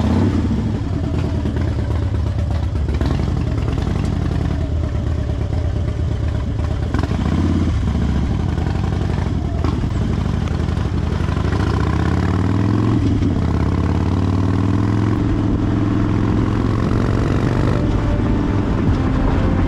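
Harley-Davidson Fat Bob's V-twin engine under way on the road, climbing steadily in pitch from about eleven seconds in as the bike picks up speed.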